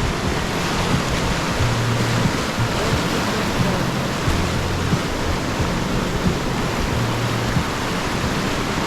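Loud, steady rush of whitewater rapids around the boat, with an uneven low rumble underneath.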